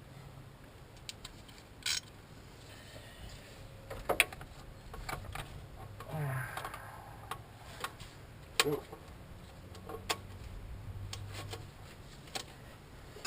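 Scattered metallic clicks and clanks of hand tools on the engine as the crankshaft is turned by hand to top dead centre, with a short scraping rasp in the middle.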